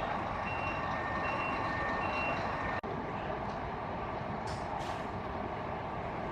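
Bus reversing alarm beeping in a steady alternating two-tone pattern, about one beep a second, over the bus's running diesel engine; the beeping stops about two and a half seconds in. A couple of short air hisses follow near the middle.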